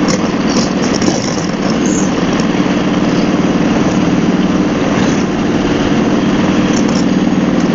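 Harley-Davidson Road Glide's V-twin engine running steadily at highway speed, under a steady rush of wind and road noise.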